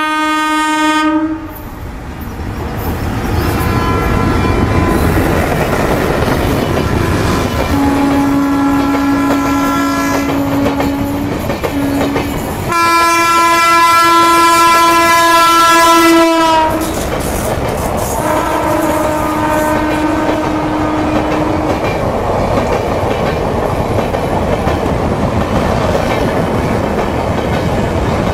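WAP4 electric locomotives sounding a series of long air-horn blasts at two slightly different pitches as two express trains approach and cross each other on double track; the loudest blast, about halfway through, drops in pitch at its end as a locomotive passes close. After it, the rumble and clickety-clack of the passenger coaches rushing past each other fills the rest.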